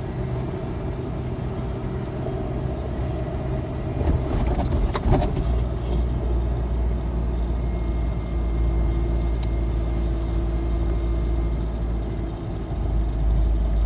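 Small 1992 Ford Ranger pickup driving, heard from inside the cab: a steady engine hum with road rumble. There are a few short knocks about four to five seconds in, and after that the low rumble gets stronger.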